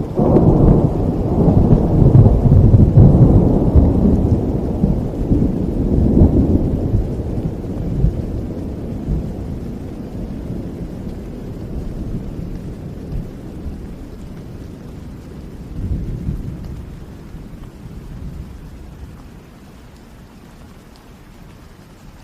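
Rolling thunder over steady rain: a long, deep rumble, loudest in the first six seconds or so, dying away slowly, with a smaller rumble about three-quarters of the way through.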